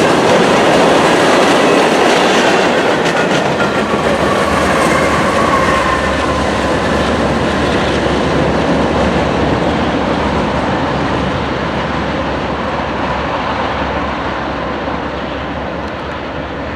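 Train rolling past, its cars clattering over the rails, with a thin wheel squeal in the first several seconds. The sound fades slowly as the train draws away.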